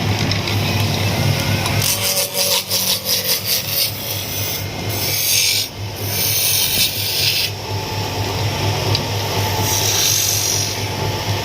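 Wood being scraped on a woodworking machine, which hums steadily underneath. There are loud rasping spells of quick repeated strokes from about two seconds in until past seven seconds, and again near the end.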